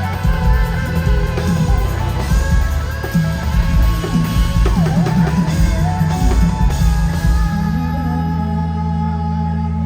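Live band with drum kit and electric guitars playing the closing bars of a country-rock song. About seven and a half seconds in the drums stop and a final chord is held and rings on.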